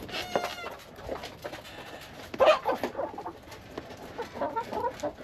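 Domestic chickens clucking, with short calls scattered through and a louder, sharper sound about two and a half seconds in.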